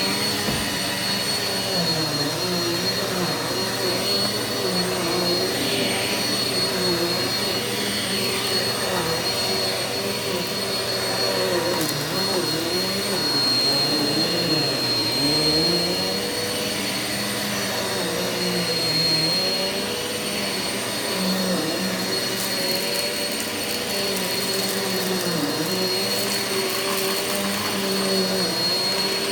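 Eureka vacuum cleaner running on carpet for the dry-soil pre-vacuum, with a steady high motor whine over a lower hum that wavers up and down in pitch.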